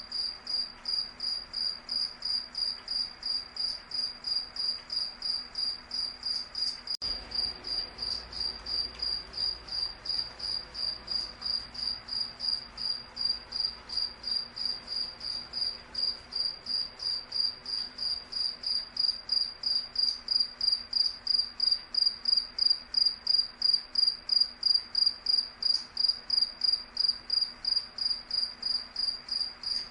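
A cricket chirping, a high-pitched chirp repeated evenly about three times a second. There is a momentary break about seven seconds in, and the chirps grow louder about two-thirds of the way through.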